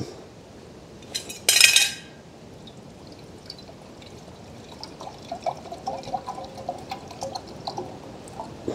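Water starting to heat in a small pot over a methylated-spirit stove: from about five seconds in, faint irregular ticks and small bubbling sounds. A short rustle or clatter comes about a second and a half in.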